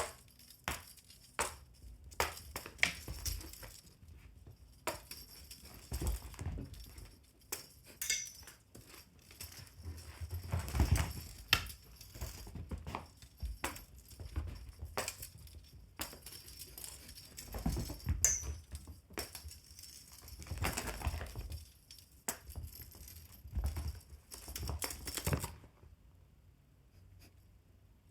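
Pets playing with a fishing-rod wand toy: irregular thumps and scuffles on the floor with light clicking and jingling, and two brief high squeaks.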